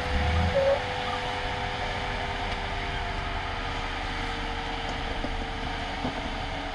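Off-road vehicle engine running steadily under a steady hiss, with a louder low rumble in the first half second that stops suddenly.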